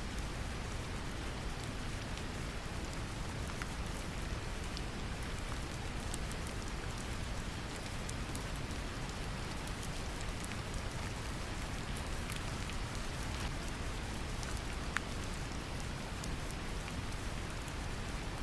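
Steady brown noise, a deep even rumble, mixed with gentle rain: scattered light drop ticks over a continuous patter, one sharper drop about fifteen seconds in.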